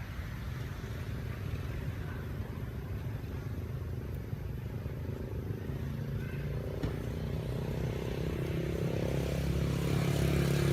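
A motor engine running steadily, a low hum that grows louder in the second half.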